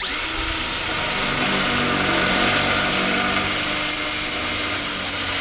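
Handheld power tool run continuously against the steel body panel of a Mk2 Ford Fiesta for about five seconds, starting and stopping abruptly, with a steady high whine over a rough grinding noise. It is being used while locating the spot welds on the inner wing.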